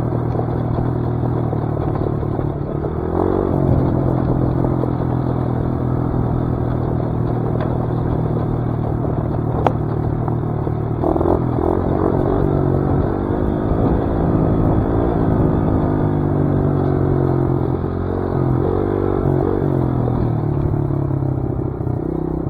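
Dirt bike engine running on the trail, its revs climbing about three seconds in and rising and falling repeatedly through the second half as the throttle is worked. A couple of sharp ticks come near the middle.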